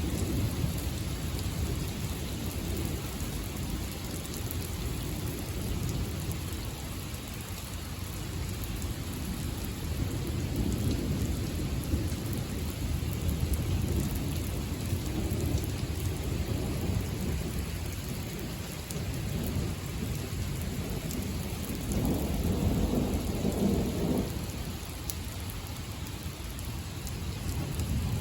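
Steady rain with low, rolling thunder rumbling underneath. The rumble swells about three-quarters of the way through.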